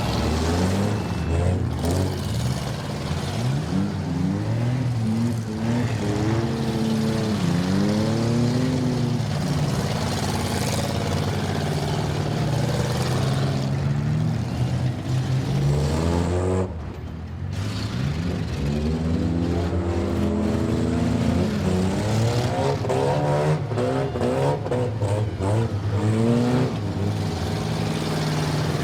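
Demolition derby car engines revving up and down, several at once, the pitch rising and falling over and over. In the second half come repeated sharp knocks.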